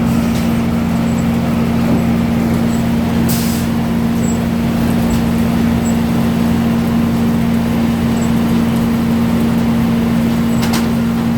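Sawmill machinery running with a loud, steady drone, with a brief sharp knock about three seconds in and another near the end.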